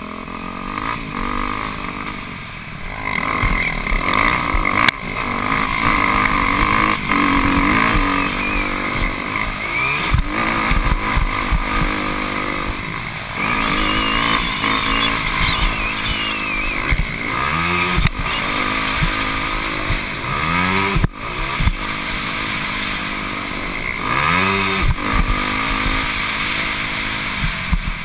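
Motocross dirt bike engine running hard around a track, revving up and dropping back over and over as the rider works the throttle and shifts, several quick rising sweeps in a row in the second half.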